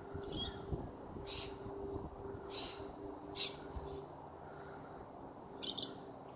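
A bird giving five short, high calls at irregular intervals, the last the loudest, over a faint steady hum.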